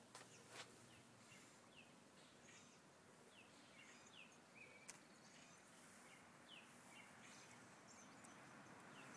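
Near-silent backyard air with a bird chirping faintly: short, high, downward-sliding chirps about once a second, and a couple of faint clicks.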